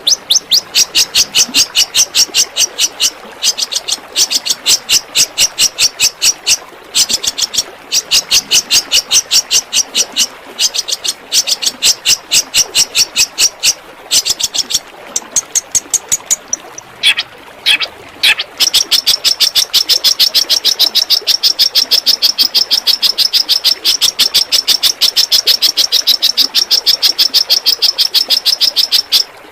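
Recorded songbird 'tembakan' song for cendet (long-tailed shrike) tutoring: rapid runs of sharp, high repeated notes, several a second, broken by brief pauses. About two-thirds of the way in it turns into a faster, unbroken trill.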